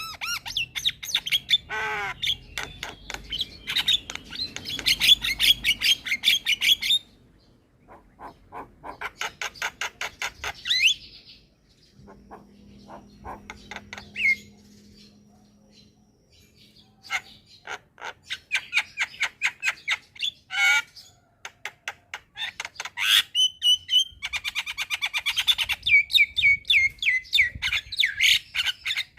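Javan myna (jalak kebo) singing: bursts of rapid, harsh chattering and squawks mixed with whistled sliding notes, broken by pauses of a few seconds. Near the end comes a long run of quick repeated notes.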